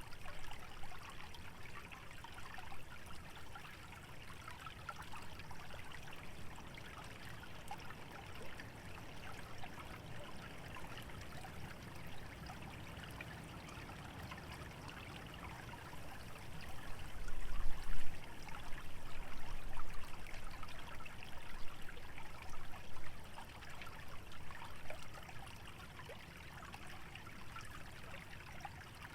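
Small wetland stream trickling steadily, a continuous fine splashing and bubbling. A low rumble swells louder for several seconds about two-thirds of the way through, then settles back.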